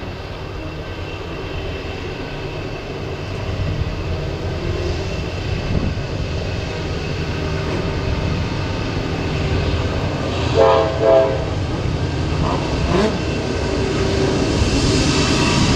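Train rumbling as it approaches, growing louder, with two short horn blasts about ten and a half seconds in.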